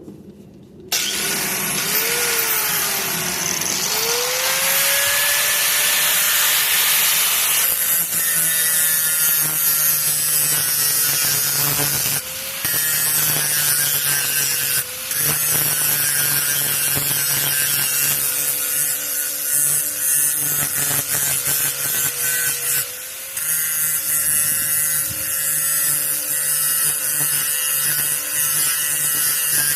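Electric grinder switching on about a second in and spinning up, then grinding the steel edge of a lawn mower dethatching (power rake) blade with a steady whine that dips in pitch a few times as it bites into the metal.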